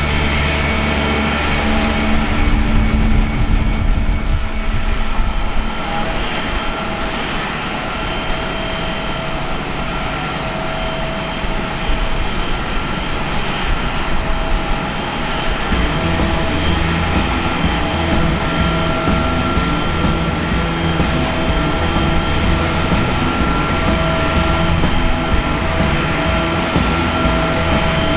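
Airliner jet engines running at an airport, a steady whine over a continuous rumble; about halfway through a deeper rumble swells in.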